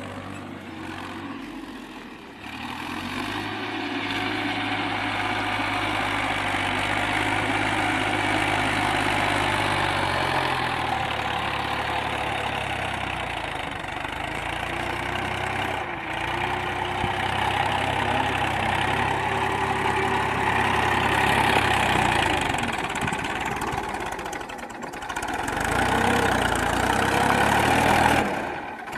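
Tractor engine running, its speed and loudness rising and falling, with short dips about halfway through and again near the end.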